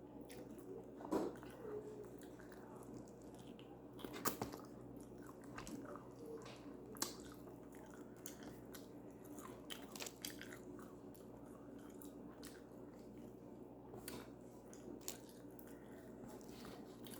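A person eating close to the microphone, quietly chewing and biting with scattered crunches. A sharper crunch comes about four seconds in and another about seven seconds in.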